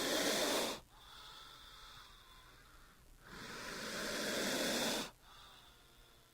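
King cobra hissing: two long hisses, each swelling and then stopping abruptly, the first cutting off just under a second in and the second running from about three to five seconds in.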